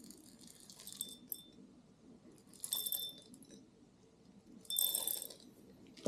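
Peppercorns being poured into a wooden peppermill in three short bursts of hard little clinks and rattles, some with a slight ring.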